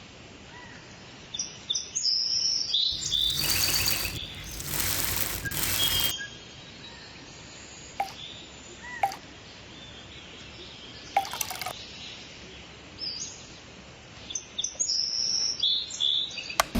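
Small birds chirping in short high calls, clustered near the start and again in the last few seconds, over a steady outdoor background hiss. From about 3 to 6 seconds in, a loud rushing noise drowns them out; a few sharp clicks and brief chirps follow.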